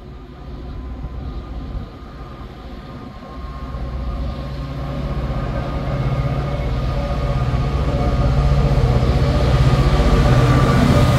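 Diesel train approaching, its engine drone and wheel noise growing steadily louder.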